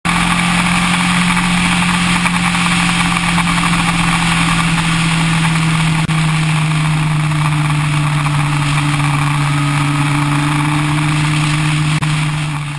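Yamaha R1's inline-four engine running at a steady cruise under a steady rushing noise, its pitch easing slightly lower through the stretch.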